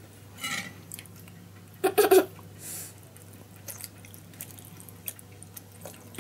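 A child chewing and eating off a plate with a fork: soft mouth sounds and small clicks, with one brief voiced sound about two seconds in, over a faint steady hum.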